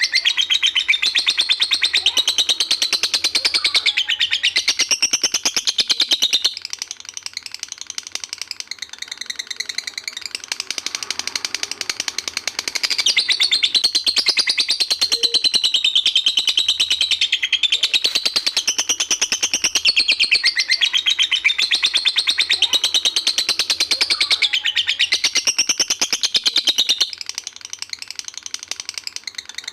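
Lovebird singing its long "ngekek" song: a very fast, unbroken, high chattering trill. It is loud for about six seconds, softer for a while, loud again for a long stretch, then softer near the end.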